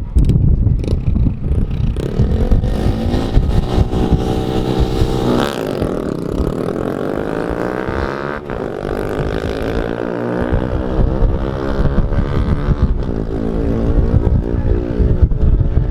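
A car engine at full throttle on a drag-strip pass: a rumbling launch, then the engine note climbing in pitch through the gears, dropping back at gear changes about five and a half and eight and a half seconds in.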